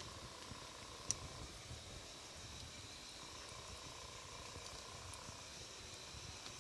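Wood fire burning with a faint, steady low rumble of flames, one sharp crackle pop about a second in and a few fainter ticks later.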